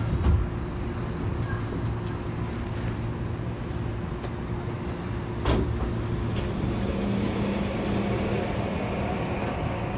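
Saitama Railway 2000 series electric train cabin, heard inside the car after the doors close. A steady low rumble and hum run throughout, with one sharp click about five and a half seconds in. The motor tone begins to rise near the end as the train starts to pull away.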